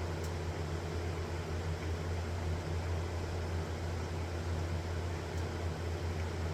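Sieg X2 mini milling machine running steadily, its motor and geared head giving a constant low hum.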